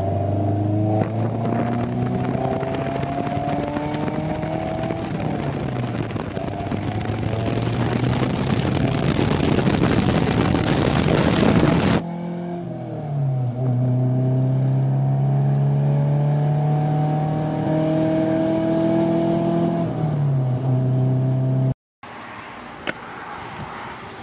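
Honda B16A2 1.6-litre DOHC VTEC four-cylinder running through a cheap aftermarket exhaust while the car accelerates. Its pitch climbs and drops at each shift, with road and wind rush building in the first half. The sound cuts abruptly about halfway to another stretch of driving with more shifts, then drops out briefly near the end.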